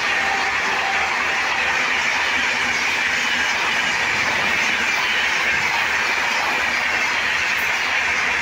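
Express passenger coaches of a Rajdhani Express passing close by at high speed: a loud, steady rush of wheels on rail.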